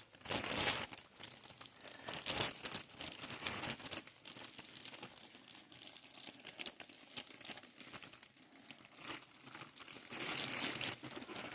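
Plastic wrapping crinkling and crumpling in irregular bursts as it is pulled off a new sewing machine, louder just after the start and again near the end.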